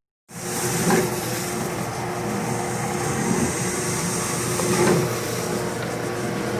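Electric ice-dessert machine running with a steady motor hum and grinding noise, briefly swelling louder twice. A short dropout to silence at the very start.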